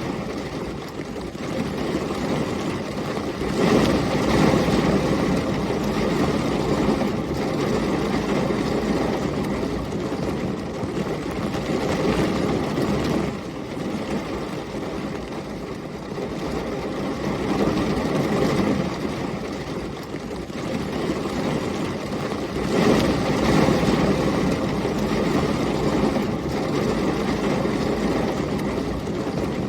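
Heavy rain with storm wind, a dense steady rush with a low rumble, swelling louder twice, about four seconds in and again about twenty-three seconds in.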